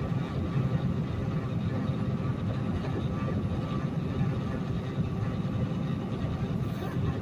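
Peterbilt semi truck running at road speed, heard from inside the cab: a steady diesel engine drone and road rumble.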